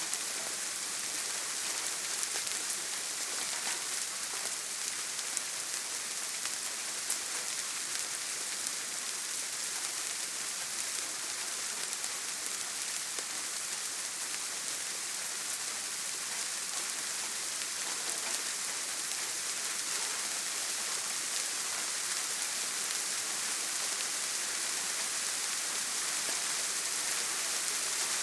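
Steady rain: a dense, even hiss with scattered faint ticks of individual drops.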